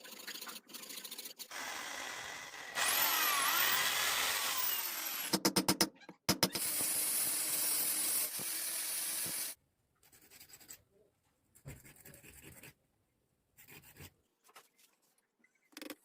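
A handheld power tool working bamboo runs loudly for about seven seconds, stuttering briefly in the middle, followed by scattered lighter handling and scraping noises.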